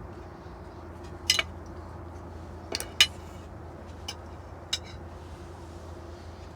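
Cutlery clinking against dishes while eating, a handful of short sharp clinks spaced irregularly, two of them louder than the rest. A steady low hum runs underneath.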